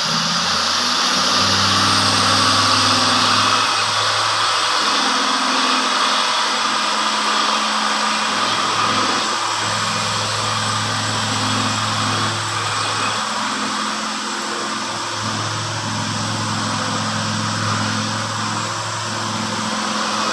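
Logging truck's engine running, its pitch rising and falling with the throttle, under a strong steady hiss.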